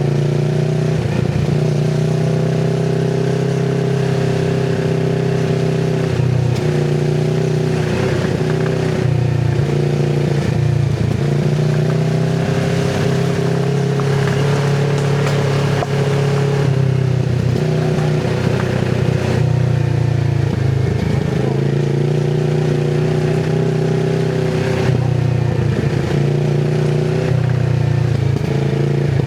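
2024 Kawasaki Z650RS's parallel-twin engine running through an IXIL MK2 full exhaust with its dB killer fitted, held at low, steady revs. The pitch dips briefly and comes back several times as the throttle is eased and reopened.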